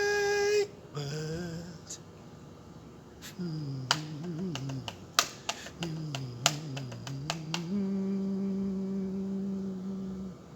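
A man humming in a low voice, in short wavering phrases and then one long held note near the end. A run of sharp clicks comes in the middle.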